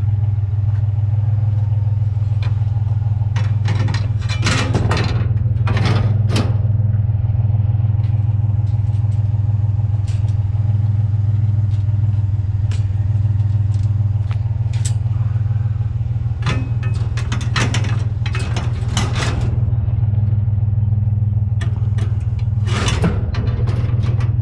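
Pickup truck driving: a steady low engine and road drone, with several short spells of rattling and clatter.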